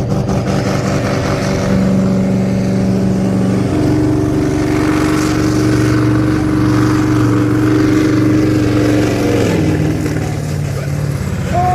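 Supersport pulling truck's turbocharged diesel engine running hard under full load on a pull. Its pitch steps up about four seconds in and drops back near the end.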